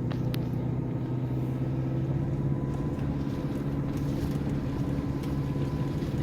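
Vehicle engine running steadily while driving, with a thin steady whine above the engine note.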